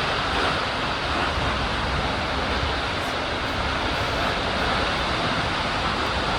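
Steady rushing noise of water and air sweeping past the camera during a water-park slide ride.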